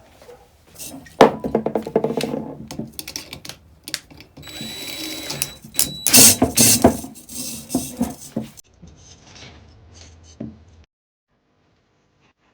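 Metal tools clattering and a power drill running in short bursts. The sound cuts off suddenly near the end.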